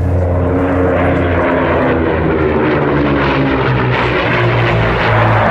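Twin Rolls-Royce Merlin V12 engines of a de Havilland Mosquito running at high power: a loud, steady propeller-aircraft drone whose pitch drifts slightly.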